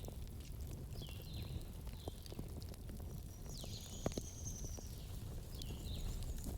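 Campfire burning with a low steady rumble and scattered sharp crackles and pops, mixed with several short, high chirping whistles, one held longer about four seconds in.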